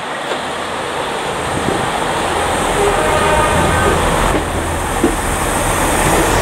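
Class 165 Turbo diesel multiple unit running along the platform, its engine rumble growing louder as it draws close, with a couple of sharp clicks from the wheels about four and five seconds in.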